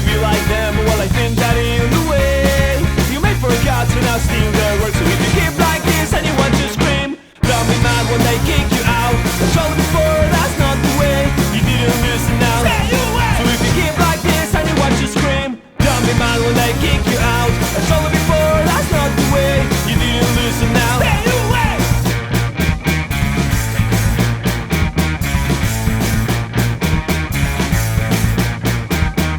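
Rock band playing an instrumental stretch of a song, with drums and bass guitar. The whole band cuts out for a split second twice, about seven and fifteen seconds in. Near the end it plays a run of short stop-start stabs.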